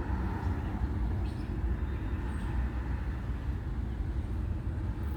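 Steady low rumble with a faint hiss, unbroken by any distinct event.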